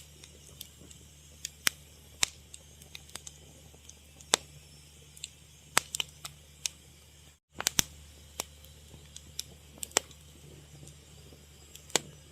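Wood fire crackling: irregular sharp pops and snaps over a faint steady low hum. The sound cuts out for a split second about halfway through.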